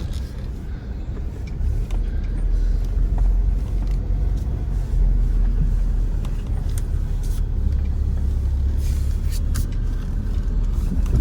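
Chevy Colorado ZR2 pickup crawling slowly over a rough off-road trail: a steady low rumble from the truck, with scattered knocks and clicks as it works over the uneven ground.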